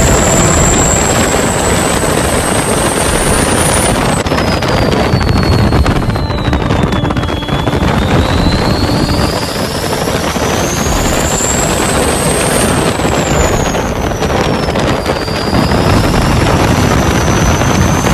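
A truck running with dense steady engine and road noise, over which a high whistle climbs and falls several times, dropping sharply about four seconds in.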